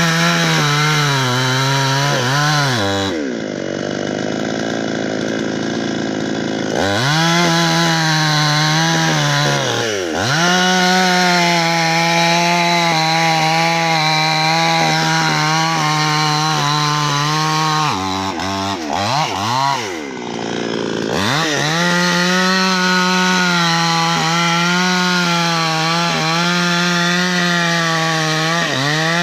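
Two-stroke chainsaw running and cutting wood. Its engine note drops away a few times and climbs back to full speed.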